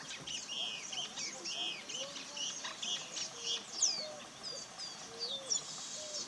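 Several wild birds chirping and calling together in quick, overlapping high chirps and whistles, with a fainter, lower note repeating about once a second underneath.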